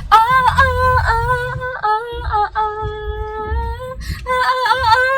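A woman humming a pop song's melody, moving between notes with a long held note in the middle, over the low rumble of a car interior.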